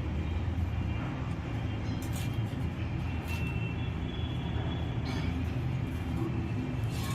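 Steady low rumble of background noise, with a few faint short high-pitched chirps.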